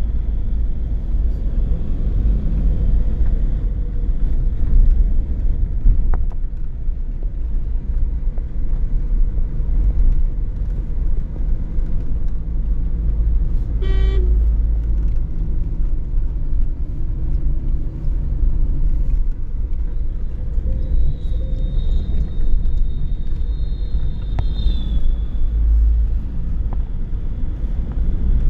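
Steady low rumble of a car driving, heard from inside the cabin. About halfway through comes a brief horn toot, and near the end a thin high tone lasts a few seconds.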